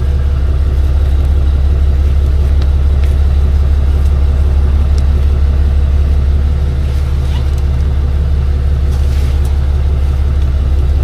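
A truck engine idling steadily with a low rumble, with a few faint clicks and taps over it.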